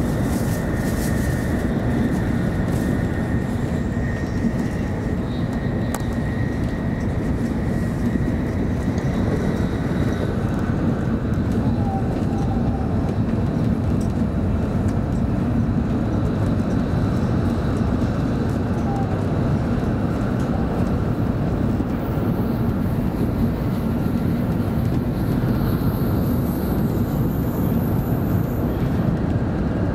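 Steady running noise of a 700 series Shinkansen at high speed, heard inside the passenger cabin: an even, unbroken rumble and rush from the running gear and the air outside.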